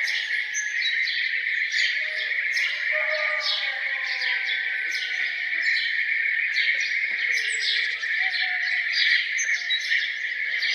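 Many birds chirping and singing together in a morning chorus: rapid, repeated short chirps, with some lower whistled notes mixed in, over a steady high-pitched hum.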